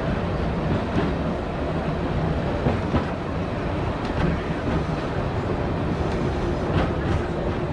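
Diesel multiple unit running along the track, heard from the driver's cab: a steady diesel engine hum with a few sharp clicks of the wheels over rail joints.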